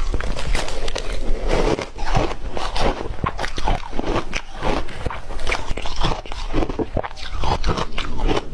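Close-miked chewing of crunchy ice: a dense, irregular run of sharp crunches and cracks as the ice is bitten and ground between the teeth.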